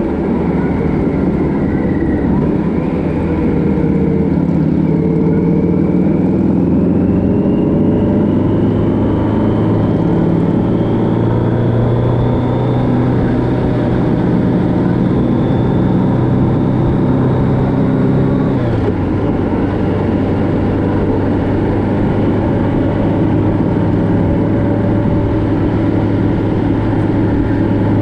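Motorcycle engine running on the road, its pitch rising slowly for several seconds and holding, then dropping suddenly about two-thirds of the way through.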